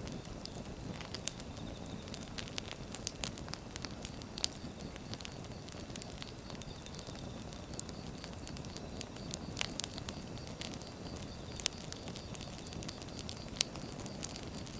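Firewood burning, a steady low rumble of flames with irregular sharp crackles and pops from the logs.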